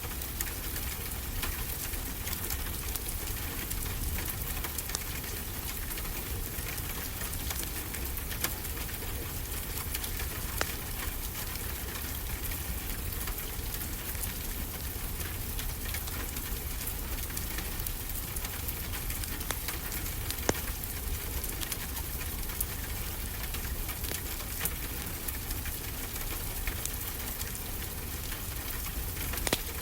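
Wood fire crackling with frequent sharp pops over a steady wash of ocean surf and a low rumble.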